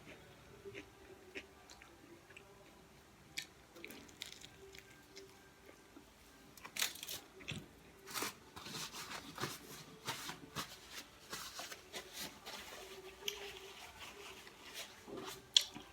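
Close-up eating sounds: a person chewing and biting food, with sparse mouth clicks at first, then frequent crunching and smacking bites from about seven seconds in.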